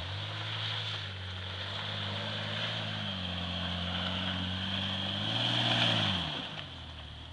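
Jeep Cherokee XJ engine running under load as the 4x4 crawls over rough dirt and climbs a steep mound. Its pitch holds steady, then revs up about five seconds in and drops back a second later.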